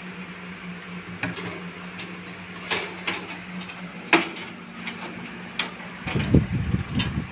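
A parrot's beak and claws clicking and tapping on a ladder as it climbs, five or six sharp separate clicks spread over several seconds. A low rumble comes in near the end.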